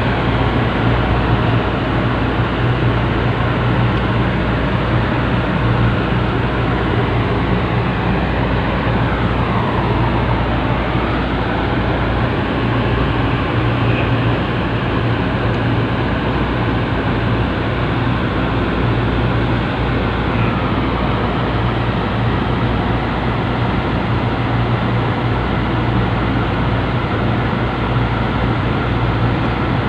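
A large engine running steadily with a deep, even hum, most likely the machinery lowering a speedboat into the sea. A higher tone dips and then rises about ten seconds in, and again more faintly near twenty seconds.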